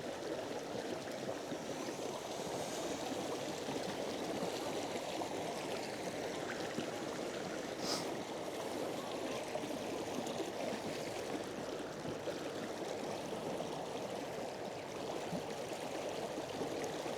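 Steady rush of water along the hull of a small inflatable boat under way at about 3 knots, pushed by an electric outboard.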